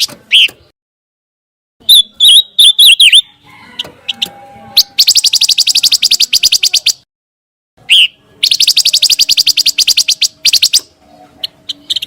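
Pancawarna bird calling: a few sharp chirps, then two rapid trills of evenly repeated high notes, each lasting about two seconds. This is a recording made to train murai batu songbirds by imitation.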